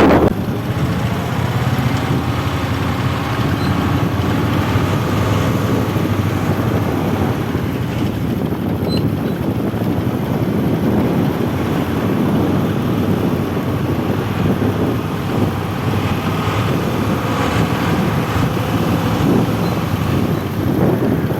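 A heavy truck's engine running steadily, with road traffic noise.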